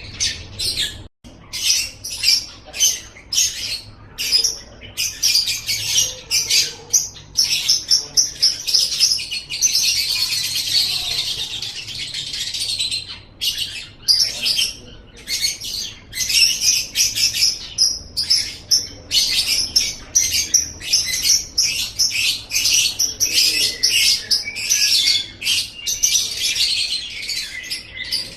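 Lovebird singing: a fast, dense stream of high chirps and chatters, with a brief break about a second in and a longer unbroken trill about a third of the way through.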